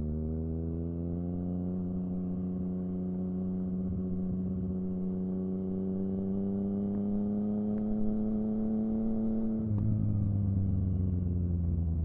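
Yamaha FZ-09's three-cylinder engine running under steady light throttle, its note rising slowly. About ten seconds in, the note changes and the pitch falls away gradually.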